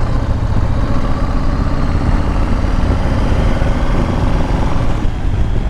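Motorcycle engine running at a steady pitch while riding, with a strong low rumble underneath.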